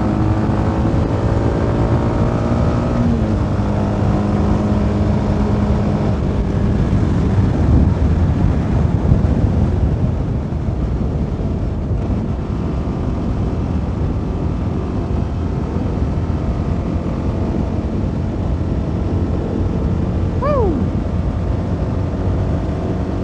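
CFMoto 300NK's single-cylinder engine running at cruising revs under wind noise on the helmet microphone. The engine note shifts a few times in the first six seconds, and the wind buffets heavier from about six to ten seconds in. A short falling tone sounds near the end.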